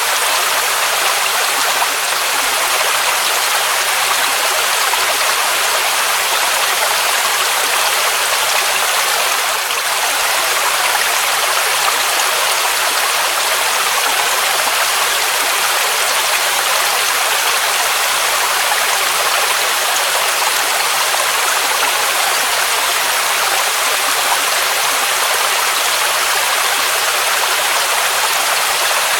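Waterfall rushing steadily: an even, unbroken hiss of falling water, mostly in the higher range, with little low rumble.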